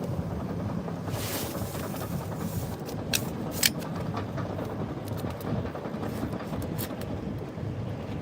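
Wind buffeting the microphone over ocean surf, a steady rushing noise, with two sharp clicks about three seconds in.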